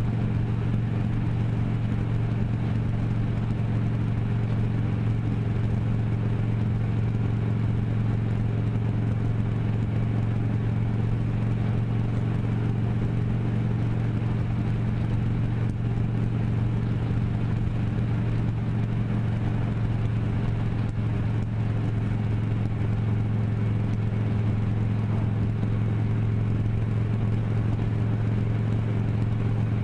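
Vehicle engine running at a constant speed: a steady low hum that holds the same pitch throughout, with a light rush of noise over it.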